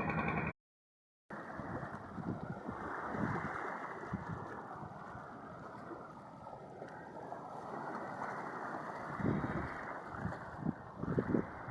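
Wind buffeting the microphone: a steady rushing noise, with louder gusting thumps near the end.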